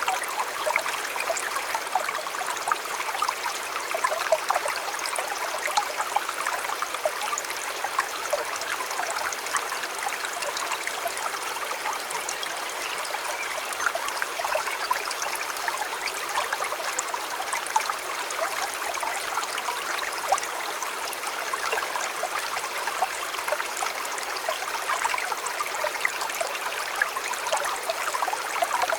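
River water flowing and babbling over stones, a steady rushing with many small quick splashes.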